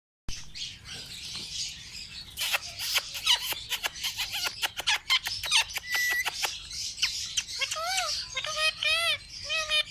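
Parrot chirping and squawking in quick sharp notes, then giving a run of short, repeated rising-and-falling calls over the last two seconds.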